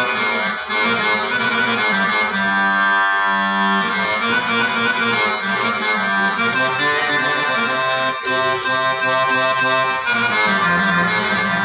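Accordion-voiced taqasim: a free, continuous melodic improvisation in the Arabic style.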